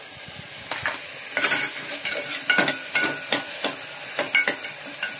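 Onions and tomatoes sizzling as they fry in oil in an aluminium pressure cooker, while a metal ladle stirs and scrapes against the pot. Repeated clinks start about a second and a half in.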